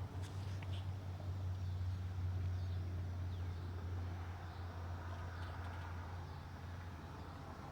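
Outdoor woodland ambience: a steady low rumble under a soft hiss, with a few faint bird chirps.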